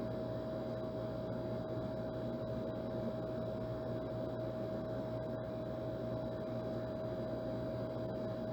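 Old air conditioner running steadily: a blowing hiss with a low hum and one clear, steady mid-pitched whine that never changes.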